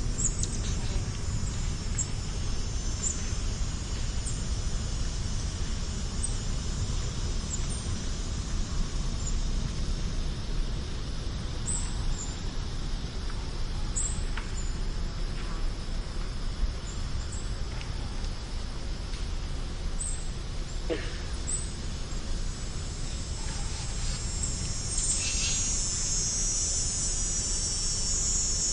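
Outdoor ambience of insects singing in a steady high-pitched chorus, with scattered short high chirps, over a steady low rumble. The insect chorus grows louder near the end.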